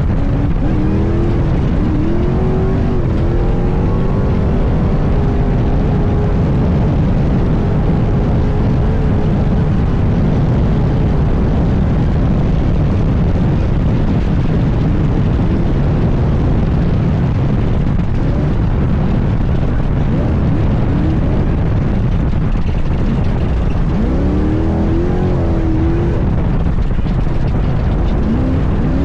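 Class 1 all-wheel-drive off-road race car engine running hard over a constant loud rumble. Its revs rise and fall in the first few seconds and again about 24 seconds in.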